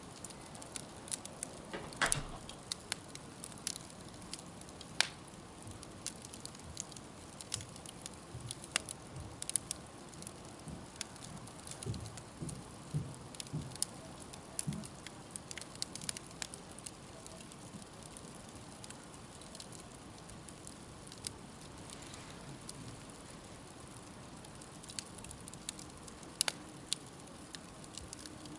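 Wood campfire burning, crackling with scattered sharp pops over a low steady hiss. A few soft low knocks sound about halfway through.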